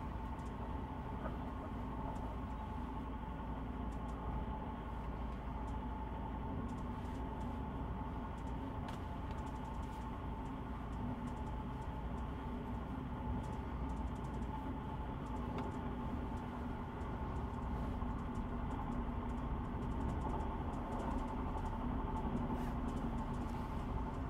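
Steady rumble and hum of a PKP Intercity passenger train running at speed, heard inside the carriage, with light irregular clicks and rattles; it grows a little louder near the end.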